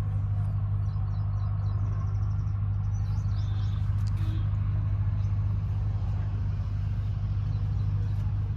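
A steady low drone, such as a motor or engine running, with a few faint high chirps about a second in.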